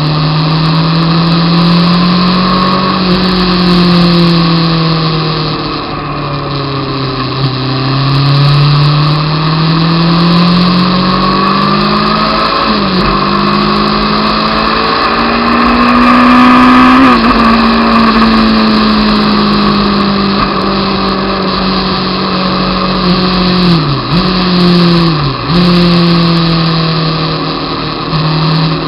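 Honda CBR600 F2's inline-four engine running at speed. Its pitch climbs slowly under throttle and drops sharply several times at gear changes, then rises again.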